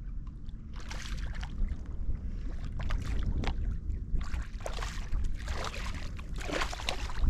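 Water splashing in repeated short bursts, about one a second, at a kayak's side, over a steady low wind rumble on the microphone.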